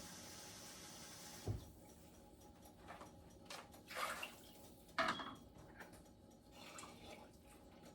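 Kitchen cookware sounds: a steady hiss stops about a second and a half in, then a low thump and a few sharp clinks and knocks of a pot and utensils.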